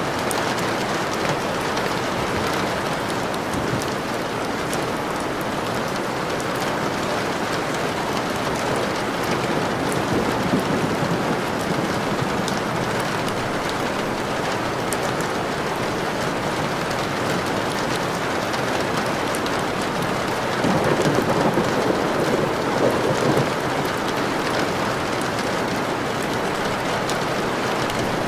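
Steady heavy rain falling, an even hiss of drops. Twice, about ten seconds in and again about twenty-one seconds in, a low rumble of thunder swells over the rain for a couple of seconds.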